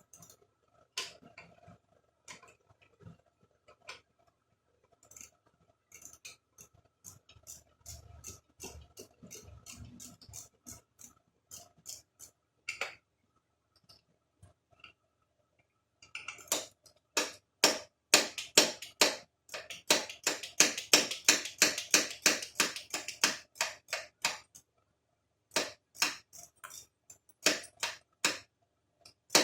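Hand ratchet clicking in rapid runs, the sound of bolts being turned, here the small 10mm bolts holding a carburetor. Scattered tool clicks and clinks come first; the longest and loudest run of fast clicks falls past the middle, then a shorter run follows after a brief pause.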